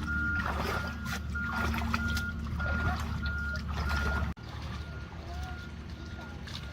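Small engine-driven water pump running steadily with a low drone, while a high beep repeats about twice a second. A little over four seconds in, the drone suddenly drops in level.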